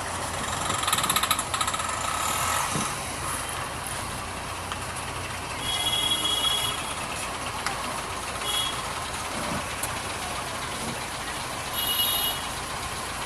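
Street traffic with vehicles running and several short high-pitched beeps from horns or reversing alarms: one about a second in, then others around six, eight and a half and twelve seconds in.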